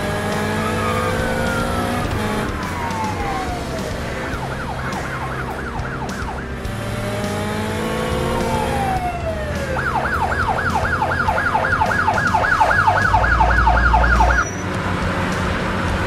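A cartoon siren sound effect: long falling wails, then a fast yelp of about four rising sweeps a second from about ten seconds in that stops suddenly, over a steady low hum.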